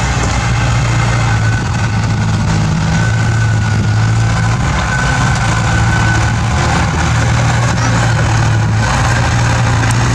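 Bulldozer's diesel engine running steadily, a loud low drone, with a thin whine coming in for a few seconds in the middle.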